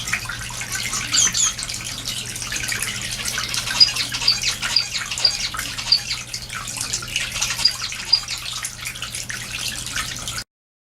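Small cage finches calling with short, repeated high chirps over a steady crackly rustle and a faint low hum. The sound cuts off abruptly about ten and a half seconds in.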